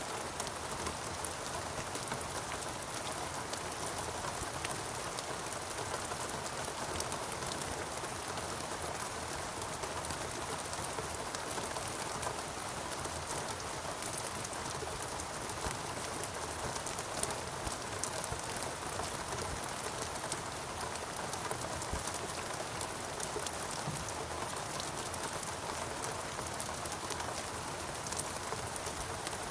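Steady rain falling in a rainforest: an even hiss with many close drops pattering.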